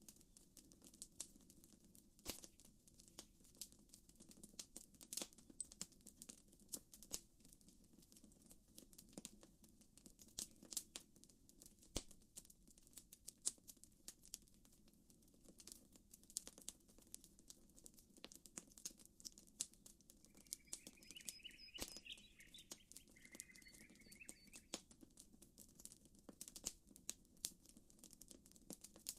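Campfire crackling softly with frequent sharp pops over a steady low background, and a bird chirping briefly twice about three-quarters of the way through.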